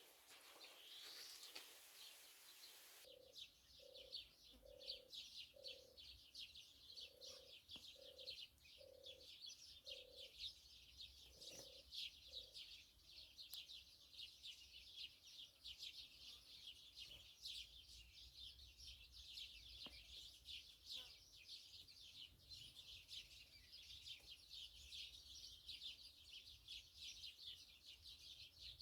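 A flock of small songbirds chirping and twittering continuously and faintly, from about three seconds in. Over the first part of the chirping, a separate bird gives about ten short, low hooting notes in a steady series, then stops.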